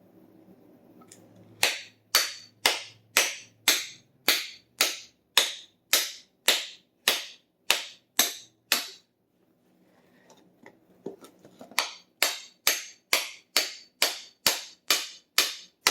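A hammer beating on a steel hammerhead fitted on its wooden handle, driving the head down and knocking rust out: about fifteen sharp strikes at an even two a second, a pause of a few seconds, then about ten more.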